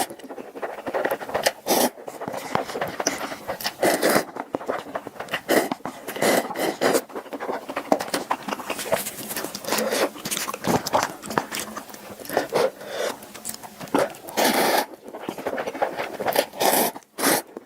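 Close-miked eating sounds: wet chewing and mouth smacking, an irregular run of short clicks and crackles.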